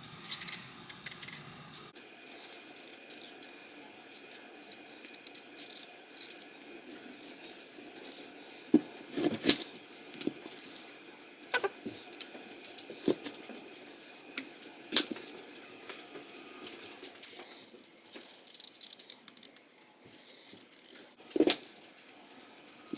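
Kitchen knife scraping and snicking as potatoes are peeled by hand, with small scattered clicks and several louder knocks and taps against the board.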